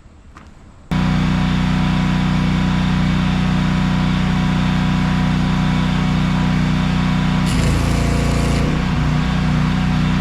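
Welder hum with the steady crackle of the arc, starting abruptly about a second in. A sleeve is being welded onto a combine's clean grain elevator shaft as a temporary fix for a flexing shaft.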